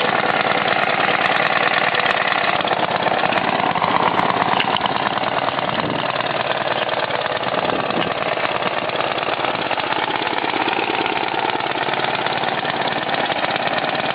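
John Deere 60 tractor engine running steadily just after a cold start, which the owner says is still not quite right.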